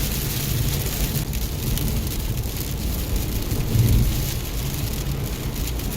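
Heavy rain pouring steadily, with a low rumble underneath that swells briefly about four seconds in.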